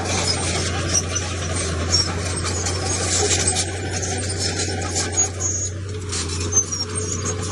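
Crawler bulldozer working: a steady low diesel engine drone under scraping of stone and short high metallic squeaks and clanks from the tracks, with sharp knocks about a second, two seconds and five seconds in.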